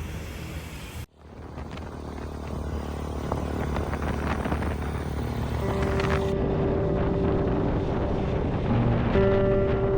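Motorcycle running along the road with a steady low engine hum. It cuts off sharply about a second in, then fades back up and grows louder. Held music notes come in over it in the second half.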